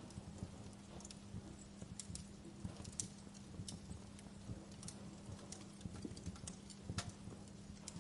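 Fire crackling: irregular pops and snaps, a few sharper than the rest, over a low rumble, with a faint steady hum beneath.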